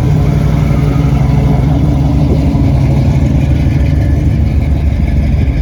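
A car engine running with a loud, steady, deep rumble.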